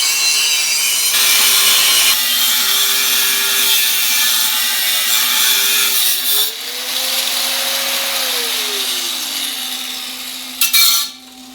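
Power grinder grinding steel to trim a frame patch piece to a flush fit, its motor whine rising about two-thirds of the way through as the load comes off and then running down. A few sharp metal clanks near the end.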